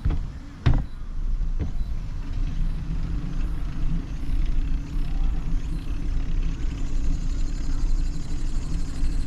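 A motor vehicle's engine and tyres running close by as a steady low rumble, growing a little louder toward the end. It is preceded by two sharp knocks in the first second.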